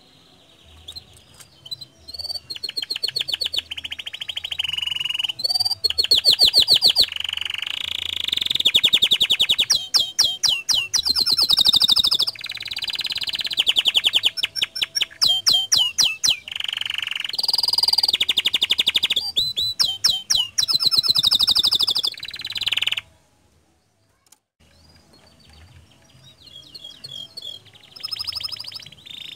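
Domestic canary singing a long, fast song of rolling trills and rapid repeated notes. The song breaks off for about a second roughly two-thirds of the way through, then resumes more softly near the end.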